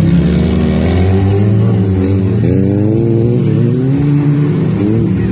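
Several demolition-derby car engines running and revving at once, their pitches rising and falling and crossing one another.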